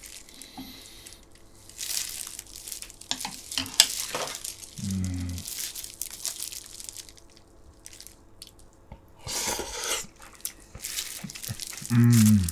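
Close-miked eating of braised pork back ribs and kimchi: irregular wet chewing, lip smacks and sucking of meat off the bone, with two short low hums, about five seconds in and near the end.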